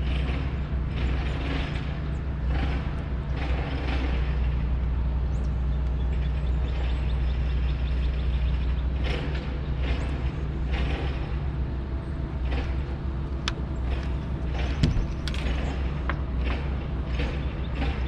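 Repeated short mechanical creaking and clicking, about once a second, over a steady low hum.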